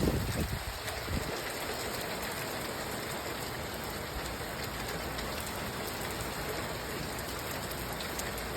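Heavy rain falling steadily, with a low rumble in the first second.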